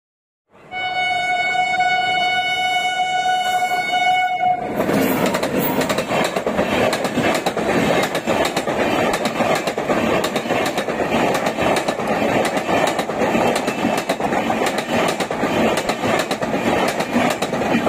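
Indian Railways WAP-7 electric locomotive sounding one long horn blast of about four seconds, then an express train passing at high speed: a loud rush of noise with rapid wheel clatter over the rail joints.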